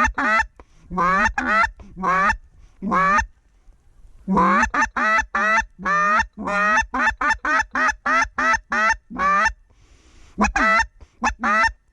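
Geese honking: loud, two-note honks and clucks in quick runs, with short pauses between runs and a gap of about a second near the middle.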